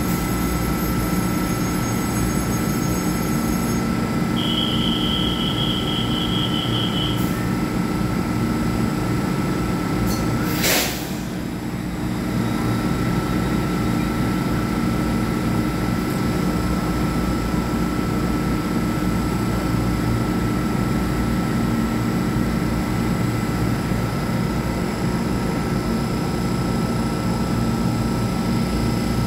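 EMU3000 electric multiple unit standing at an underground platform, its on-board equipment giving a steady low hum with a faint high whine. About eleven seconds in comes a brief sharp noise, after which the whine drops out for a second or so.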